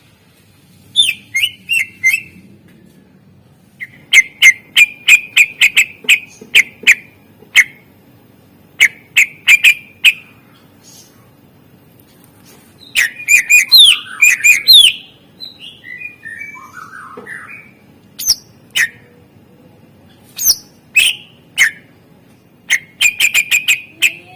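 Greater green leafbird (cucak ijo) singing a song loaded with mimicked phrases, in bursts of rapid, sharp repeated notes. Near the middle comes a denser run of gliding whistles, followed by softer, lower chirps.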